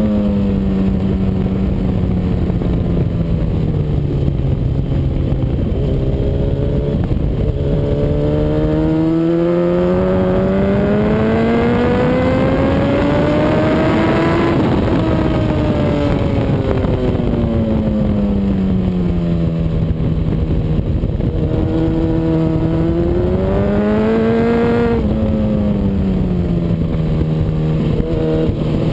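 Honda CBR RR sport bike's inline-four engine at speed, its revs climbing steadily for several seconds, then falling away and holding steady before a shorter rise and drop near the end, over a steady rushing noise.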